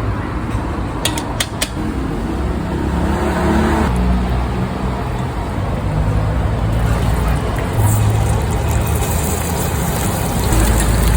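Steady low rumble of passing road traffic, with a few sharp clicks about a second in.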